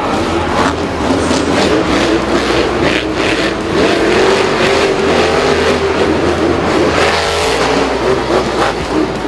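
A vehicle engine revving loudly, its pitch rising and falling unevenly.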